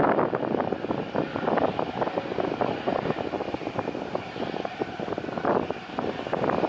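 Strong gusty wind buffeting the microphone, a rough noise that rises and falls in rapid uneven surges.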